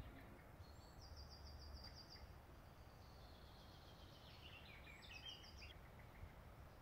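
Faint outdoor ambience with birdsong: three short runs of quick, high repeated notes a second or two apart, over a low steady hiss.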